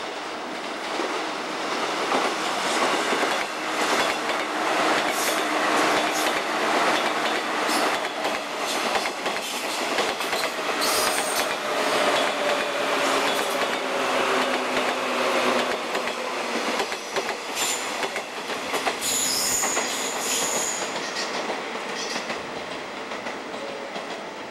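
A 185-series electric express train running past, its wheels clattering over the rail joints; the sound swells about two seconds in and fades toward the end, with brief high wheel squeals in the later part.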